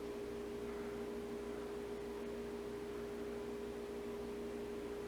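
A steady hum with a faint hiss, holding one pitch throughout without change.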